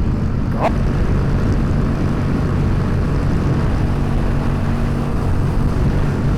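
Yamaha FZ-07 motorcycle's parallel-twin engine running steadily at highway cruising speed, with a brief high chirp about half a second in.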